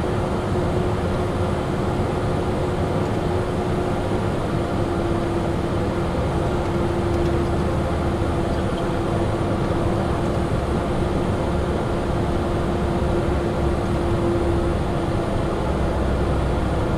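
Steady cockpit noise of a Cessna Citation Sovereign business jet on final approach: an even rush of its turbofan engines and airflow with a constant hum underneath.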